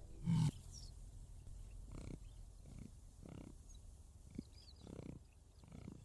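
A big cat grunting: one loud, deep grunt just after the start, then a run of softer, evenly spaced grunts.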